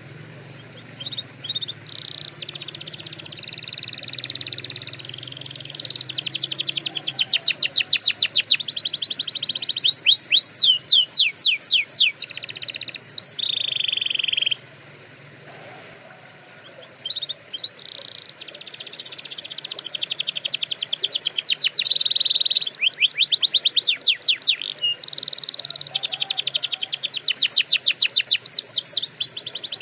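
Domestic canary singing long phrases of rapid trills and fast repeated notes. One phrase lasts about fourteen seconds, then comes a short pause of two or three seconds, and a second long phrase follows.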